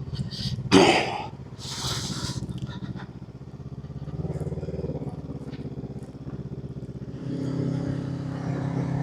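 Honda 500 parallel-twin motorcycle engine with a new exhaust, running at low revs, then rising and getting louder as it pulls away about seven seconds in. A few brief rustling bursts sound in the first couple of seconds.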